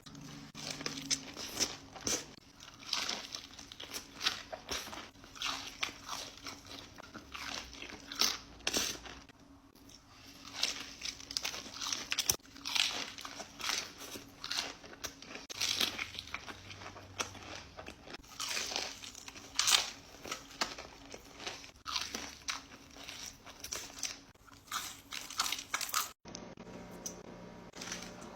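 Close-miked crunchy biting and chewing of food, one irregular crackly bite after another.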